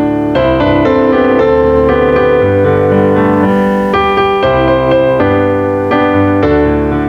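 Piano music: slow, held chords changing about once a second over low bass notes.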